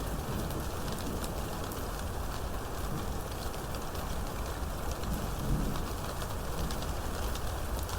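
Steady heavy rain, with many separate drops ticking sharply over an even hiss and a low rumble underneath.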